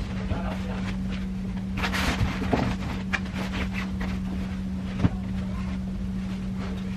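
Vacuum cleaner running with a steady hum. Light clatter about two seconds in and a sharp knock about five seconds in, as it bumps against things.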